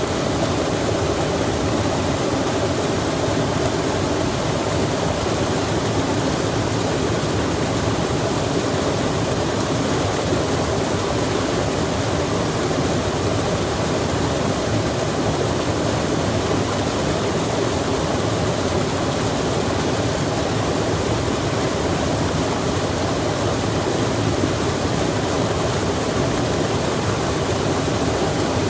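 Steady rushing of running water, an even wash of noise with nothing standing out and no change in level.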